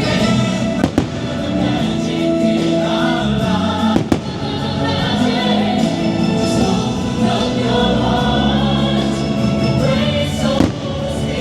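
Choral music for a fireworks show with a choir singing, broken by three sharp firework bangs: about a second in, about four seconds in, and near the end.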